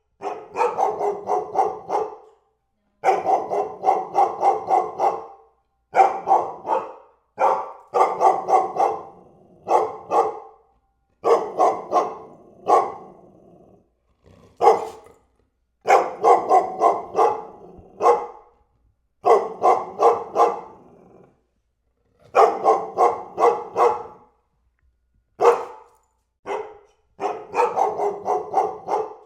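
A dog barking in rapid runs of several barks at a time, about four or five a second, with short pauses between the runs.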